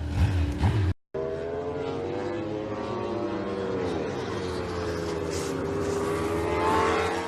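Motorcycle engine running at fairly steady revs, its pitch dipping and rising slightly and climbing a little near the end. About a second in, the sound cuts out abruptly for a moment as one clip gives way to the next.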